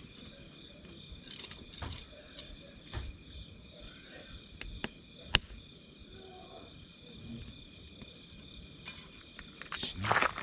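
Wood campfire crackling, with scattered sharp pops (one much louder about five seconds in) and a louder rush of crackle near the end, over a steady high-pitched background tone.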